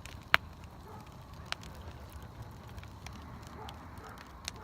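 Campfire burning with a steady low rush of flames and a few sharp pops of the burning wood, the loudest about a third of a second in.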